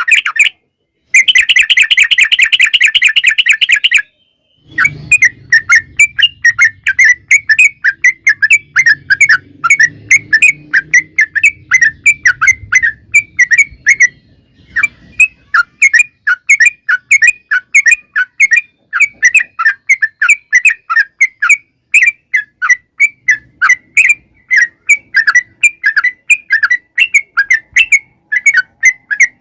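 Yellow-vented bulbul (trucukan) singing a long, rapid chattering run of short repeated chirps, several notes a second. It breaks off briefly twice in the first few seconds, then runs on steadily.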